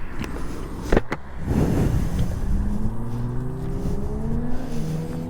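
Motorcycle engine revving up under acceleration, its note rising steadily in pitch through the second half, over a low wind rumble. Two sharp knocks sound about a second in.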